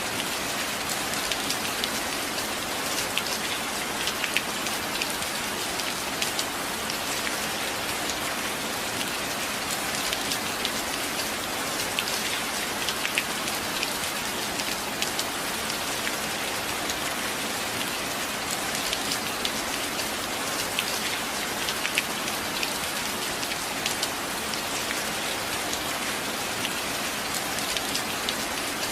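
Steady rain: an even hiss of falling rain with many sharp individual drops ticking on a surface, unchanging throughout.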